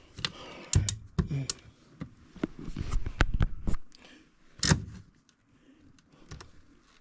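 Knocks, clicks and thunks of parts and tools being handled at a gas furnace during a tune-up, with a short scraping stretch about three seconds in.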